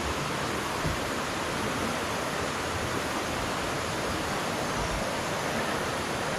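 Mountain creek water rushing steadily over rocks, an even, unbroken hiss.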